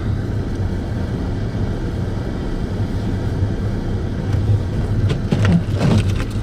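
Vehicle engine running with a steady low hum under blizzard wind noise; near the end, gusts buffet the microphone.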